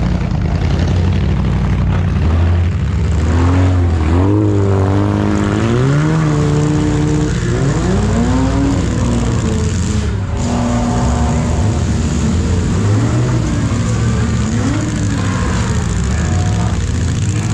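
Several demolition derby car engines running loud over a steady low rumble, revving so their pitch rises and falls again and again.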